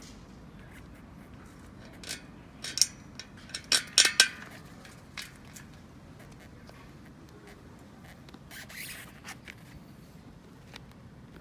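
Hand work on bicycle parts: a quick run of sharp clicks and scrapes, loudest a few seconds in, then a short rasping rub later on.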